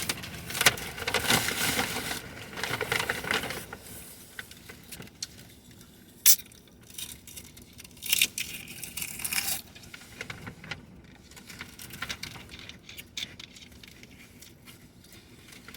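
Irregular rustling and crinkling of food wrappers and packaging handled while eating, busiest in the first few seconds and again around the eight-second mark, with a single sharp click about six seconds in.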